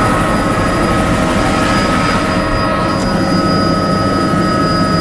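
Helicopter in flight heard from on board: a steady, loud drone of engine and rotor with several high, steady whining tones over it.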